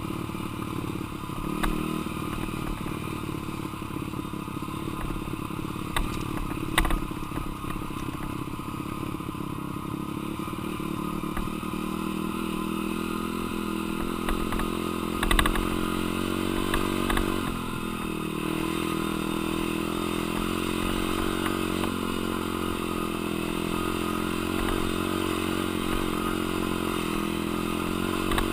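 Dirt bike's single-cylinder engine running under riding load, its pitch rising and falling with the throttle. A few sharp knocks and rattles are mixed in.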